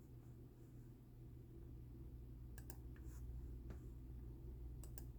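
A handful of faint, sharp clicks from operating a computer, scattered mostly through the second half, over a low steady hum.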